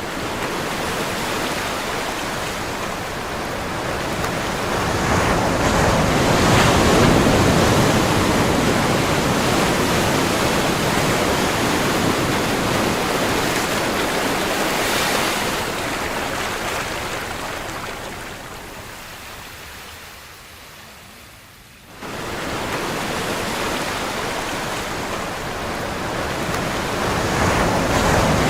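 Ocean surf: a steady rush of breaking waves and washing water that swells to a peak, slowly fades, then jumps back up abruptly about two-thirds of the way through.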